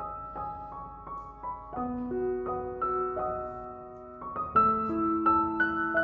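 Soft background piano music, slow notes sounding over held chords, with a fuller chord struck about four and a half seconds in.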